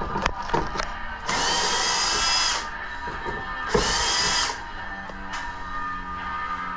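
Handheld power tool running in two short bursts with a steady whine, the first lasting about a second and a half, the second under a second, with a few light clicks before them.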